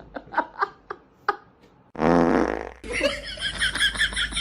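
A loud, low buzzy blast about two seconds in, lasting under a second, then a person laughing.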